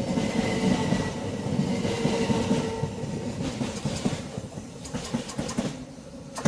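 Class 375 Electrostar electric multiple unit running through, wheels clicking over rail joints, the noise fading as it goes. A single sharp crack right at the end, the flash of a big spark from the third-rail pickup shoe.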